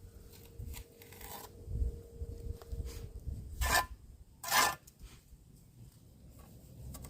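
A few short scraping strokes, the two loudest about a second apart near the middle, over a low rumble.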